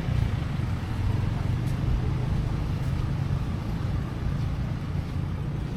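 Steady low running hum of a motor vehicle's engine under way, with a noisy rush over it.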